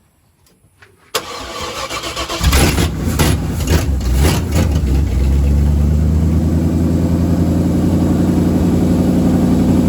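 Carbureted small-block Chevy V8 cranking about a second in, catching, blipped a few times, then settling into a steady idle through its newly finished exhaust.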